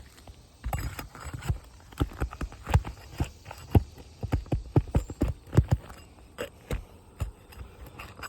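A run of quick, irregular knocks and taps on an asphalt shingle roof as a roofer works the shingles loose to break their seal. The knocking starts about a second in, is dense for about five seconds, then thins to a few scattered taps.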